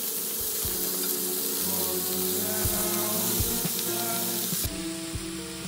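Bamboo shoots and ostrich fern fiddleheads sizzling in a hot oiled nonstick frying pan as they are stirred with chopsticks, with a few light clicks of the chopsticks against the pan. The bright hiss cuts off abruptly near the end. Background music with a melody plays under it.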